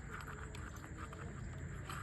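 A few faint light clicks of small metal parts or tools being handled, with a sharper click near the end, over a low steady hum.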